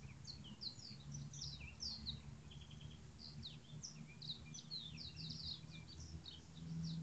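Small birds chirping, many short, quick, mostly falling high calls overlapping one another, over a low steady hum.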